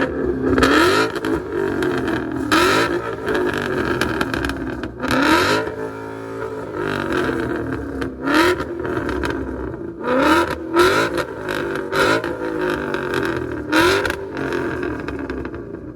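Car engine revved over and over in short, quick blips, the pitch climbing and dropping back about a dozen times.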